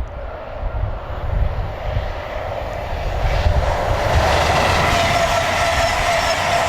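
A train approaching, its running noise swelling from about three seconds in, with a steady drone and a higher whine over it.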